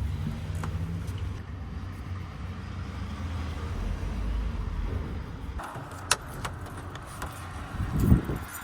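Low, steady rumble of a motor vehicle that eases off about five and a half seconds in, followed by a sharp click about six seconds in and a thump near the end.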